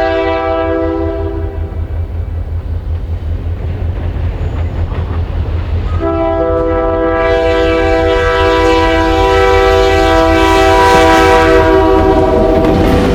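Diesel locomotive horn sounding a chord: one blast ends about a second and a half in, and a second long blast starts about six seconds in and is held to the end. Under it the locomotive's diesel engine rumbles, getting louder as the train approaches.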